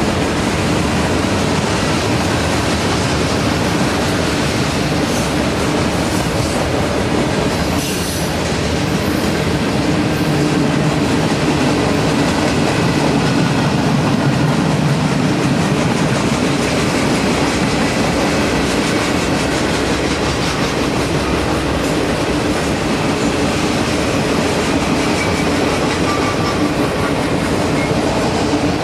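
Freight cars of a long mixed freight train rolling past at steady speed, wheels clattering over the rails in a continuous, even rumble.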